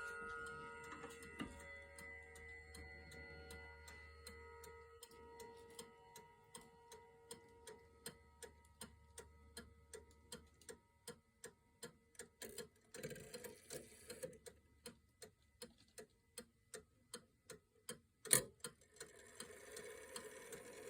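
Antique Kienzle eight-day spring-wound bracket clock: the last chime notes ring out and fade over the first few seconds, then the movement ticks steadily, about two ticks a second. One louder mechanical click comes near the end.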